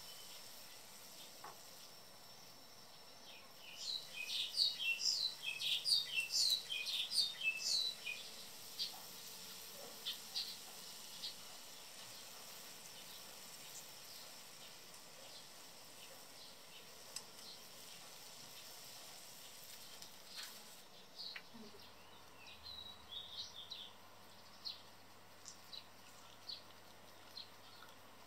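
A bird sings a burst of quick, high chirping notes about four seconds in, with a shorter run of chirps later, over the faint steady sizzle of potato fries deep-frying in oil.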